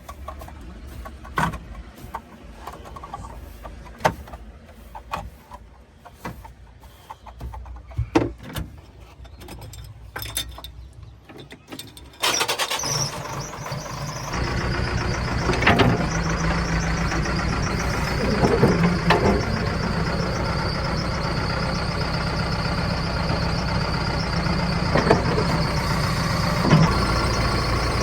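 Heavy diesel machinery: fairly quiet at first with scattered knocks and clicks, then about twelve seconds in a diesel engine suddenly becomes much louder and runs steadily.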